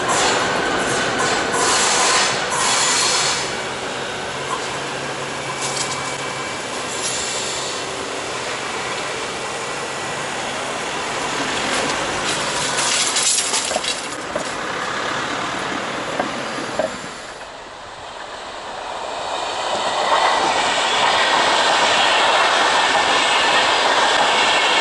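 Intercity train hauled by a Class 218 diesel locomotive rolling away over a temporary track bridge, with rail and wheel noise and a few sharp clicks. About three quarters of the way in the sound dips and cuts to passenger coaches passing close by at speed, with a louder, steady rush of wheel and rail noise.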